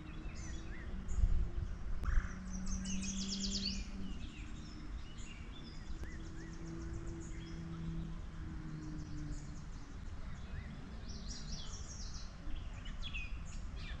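Outdoor ambience of songbirds calling, with several quick, high trills of rapidly repeated notes, over a steady low rumble and a faint low hum.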